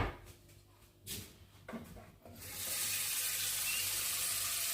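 A sharp knock, then two lighter knocks, then a kitchen tap turned on about halfway through, water running steadily to fill a pot for the stove.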